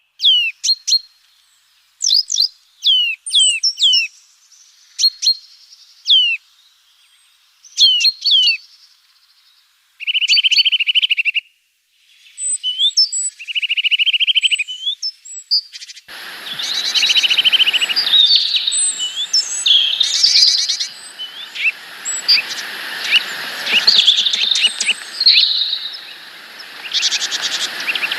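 Small songbirds calling: repeated sharp downward-sliding notes and a couple of short rapid trills, then from about 16 seconds in a busier chorus of overlapping calls over a steady rushing noise.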